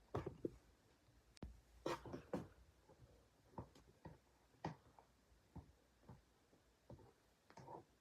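Slime being squished and poked by hand: irregular short squelches and pops, roughly one or two a second, with a sharp click about one and a half seconds in.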